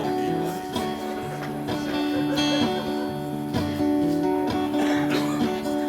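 Acoustic guitar playing the instrumental intro to a slow folk song, plucked and strummed chords ringing on, with no singing yet.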